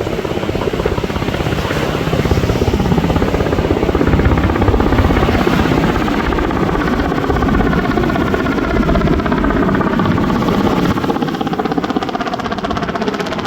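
Helicopter flying low overhead, its rotor blades making a loud, fast, steady chop that is loudest about four seconds in and eases slightly after.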